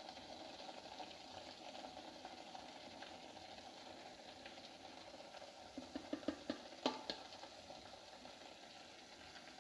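Ground onion-tomato gravy paste frying in a kadai, a faint steady sizzle, with a few light spoon taps about six to seven seconds in as spice powder is scraped in.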